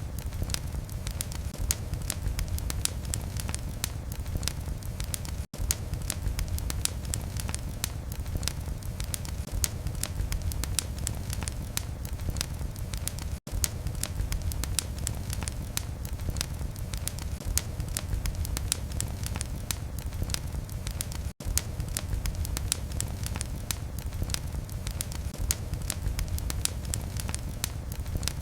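Wood fire burning in a fireplace: a steady low rumble of flames with many quick, irregular crackles and pops. The sound cuts out for an instant three times, about eight seconds apart.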